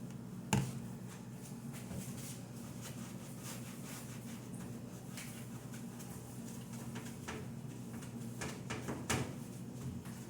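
Refrigerator drawers and shelves being handled: scattered plastic clicks and knocks over a steady low hum, the sharpest knock about half a second in and another near the end.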